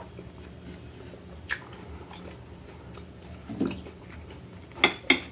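Close-up chewing of a mouthful of food with the mouth closed, with soft wet mouth clicks. Near the end come two sharp clicks, the loudest sounds here.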